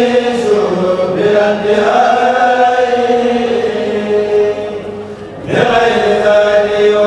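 A kourel group chanting a Mouride khassida together, holding long sung notes. The voices fall away briefly about five seconds in, then come back in together.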